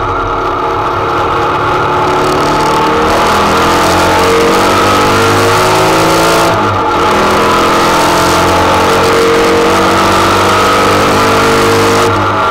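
KLAUS 2.6-litre Type 4 flat-four race engine on Weber 48 IDA carburettors, pulling hard under load inside the Beetle's cabin. It eases off briefly about six and a half seconds in and again near the end, then pulls again.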